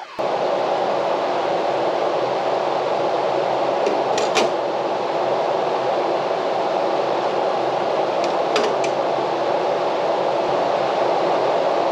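A steady machine whir, with a brief click about four seconds in and a couple more past eight seconds.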